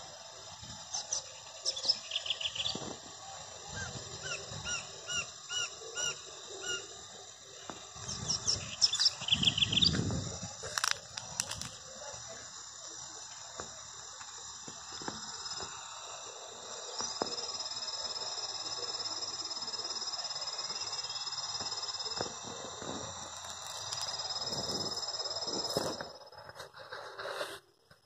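Birds calling outdoors: a few short chirps, then a run of about six evenly spaced notes, then a burst of quick chirps about nine seconds in. Behind them runs a steady high drone, with low thumps now and then.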